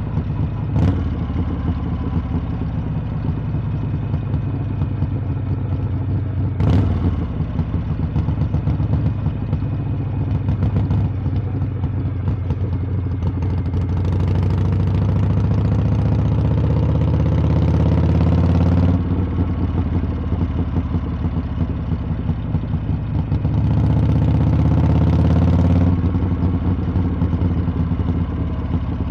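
Harley-Davidson V-twin motorcycle exhaust while riding. Two sharp knocks come early on the steady engine note. Then the throttle opens twice: a long rising pull that cuts off sharply about two-thirds of the way in, and a shorter one near the end.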